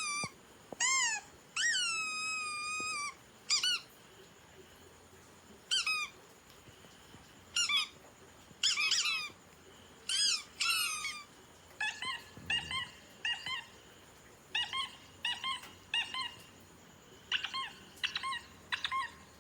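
Rubber squeaky dog toy squeezed over and over, each squeak high and clear. The first few squeaks are long and slide down in pitch; from about halfway on they come short and quick, in pairs and threes.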